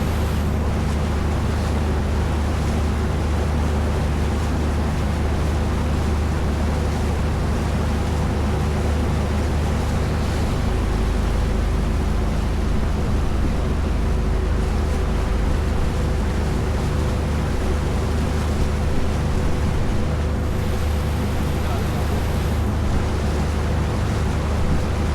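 Motorboat engine running at a steady pace with a constant low hum, under a rushing wash of water and wind noise.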